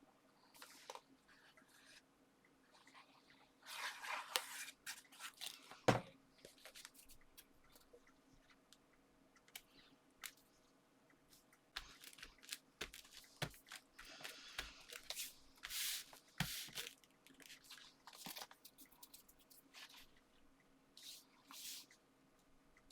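Card stock and paper being handled and pressed together while layers are stuck onto a card base: intermittent rustles and scrapes, with a sharp tap about six seconds in.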